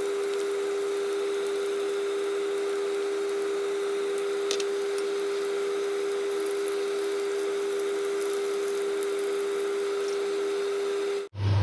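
Chicken pieces shallow-frying in a pan of bubbling oil: a steady sizzle under a constant hum, with one light tap about four and a half seconds in.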